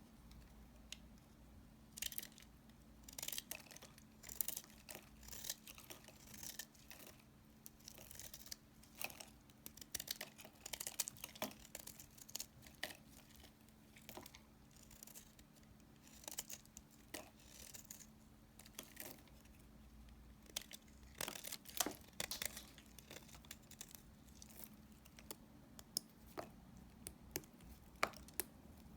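Knife cutting through dry leftover pieces of soap: irregular crisp crackling strokes, some in quick runs, with a faint steady hum underneath.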